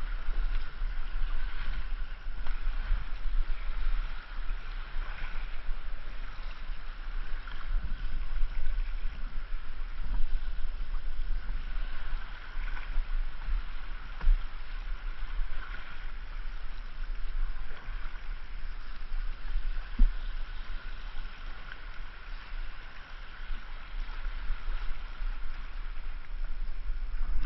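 River water running and splashing around a kayak being paddled downstream, over a heavy low rumble. There is a single sharp knock about twenty seconds in.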